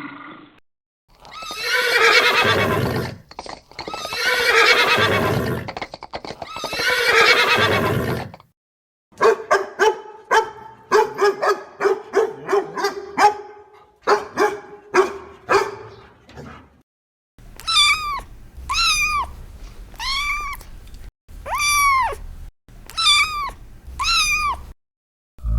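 Animal calls from different animals in succession: three long, rough calls about two seconds each, then a rapid quavering call with many short pulses, then a run of short arched chirps repeated about once a second.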